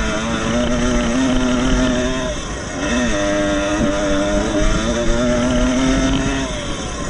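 Two-stroke motocross motorcycle engine running at high revs. Its pitch holds steady, dips and climbs back about three seconds in, and sags briefly again near the end as the throttle comes off and on.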